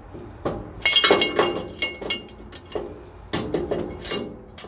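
Metal parts clinking and knocking with a ringing note: a bolt and the cast-iron riser block being worked into place on a bandsaw frame. A run of sharp knocks, loudest about a second in.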